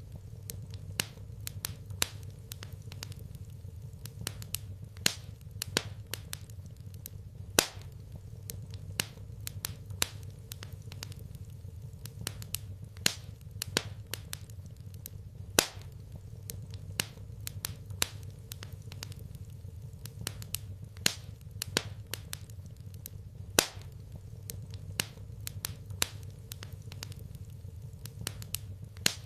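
Fire crackling in a fireplace: irregular sharp pops and snaps, a few standing out louder, over a steady low rumble.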